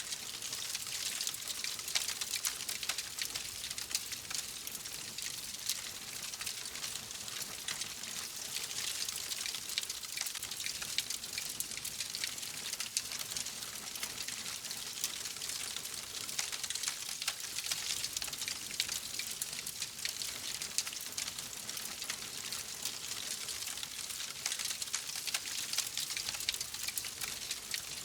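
Wood fire crackling steadily: a continuous hiss full of small, rapid pops and snaps, with no let-up.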